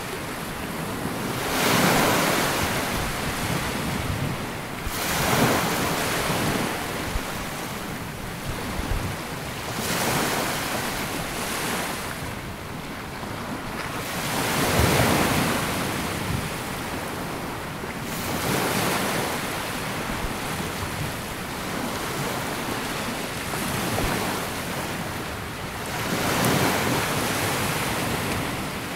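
Small sea waves breaking and washing up a sandy beach, the surf swelling and falling back every few seconds.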